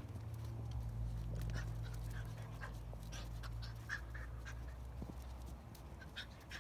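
Andalusian ratter (bodeguero andaluz) puppies play-fighting, giving many short high squeaks and yips over a steady low hum.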